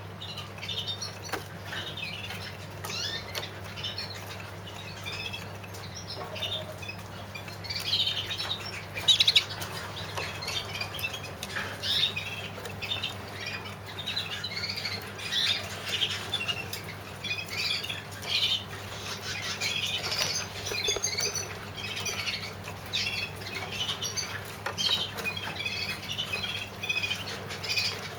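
Young canaries chirping and fluttering in small show cages: many short high chirps, with brief flutters and taps throughout. A steady low hum lies underneath.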